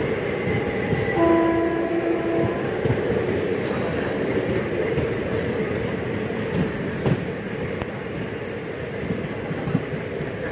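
Passing express train, its carriages rumbling and wheels clattering over the rail joints, with a short horn blast a little over a second in.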